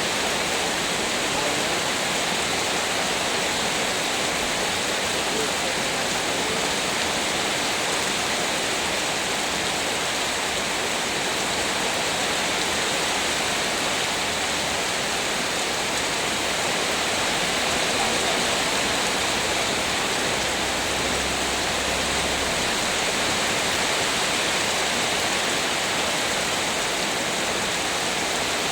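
Heavy rain pouring down: a steady, dense hiss that does not let up.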